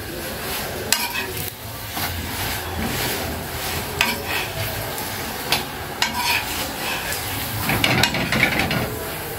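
Pumpkin chapati sizzling in a frying pan over a gas flame, with scattered clicks and scrapes as it is pressed and turned by hand. A run of louder scraping and clicking comes about eight seconds in.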